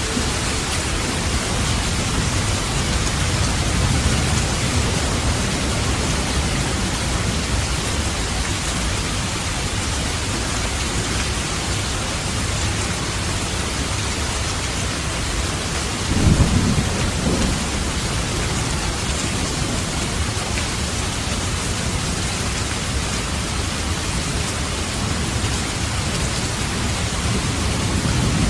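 Steady, heavy rain falling, with thunder: a low rumble a few seconds in, a louder, sharper peal a little past halfway that lasts about a second and a half, and rumbling again near the end.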